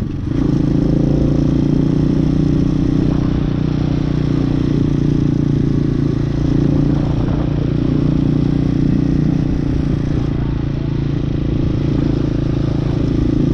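Hawk 250 motorcycle engine running at a steady, even pitch while riding, after a brief drop in loudness right at the start.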